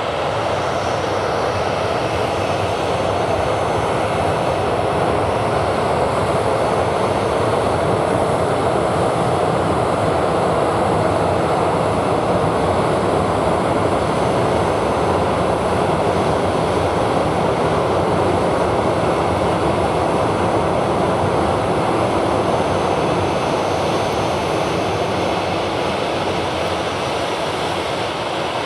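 Jet engines of a Skymark Airlines Boeing 737-800 running loud and steady at close range, with a faint high whine over the even rushing noise, as the airliner takes off.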